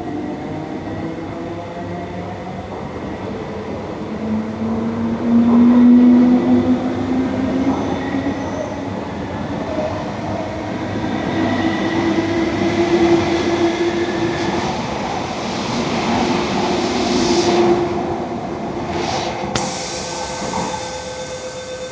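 An MTR East Rail line electric train running through the station, its wheels rumbling on the track and its traction motors whining in tones that slowly rise and fall in pitch. Near the end there is a sharp click, and a steady tone sets in.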